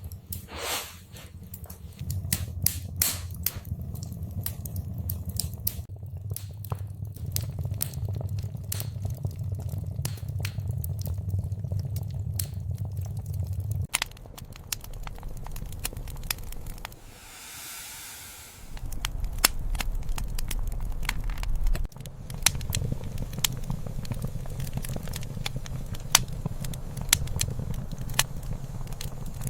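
Wood fire crackling and popping in a fireplace, irregular sharp snaps over a steady low rumble of the burning logs, with a brief hiss around the middle.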